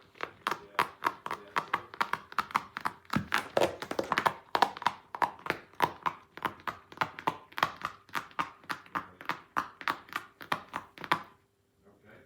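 A rapid series of sharp clicks, about three to four a second, over a faint steady hum; the clicks stop suddenly about eleven seconds in.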